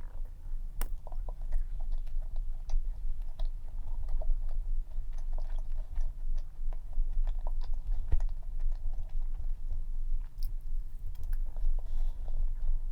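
Close-up chewing of a dense cream-cheese cup cookie: many small wet clicks and soft crunches from the mouth, over a steady low hum.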